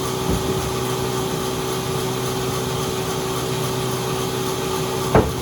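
Sawmill machinery running steadily with a constant motor hum. There is a short knock shortly after the start and a louder one near the end.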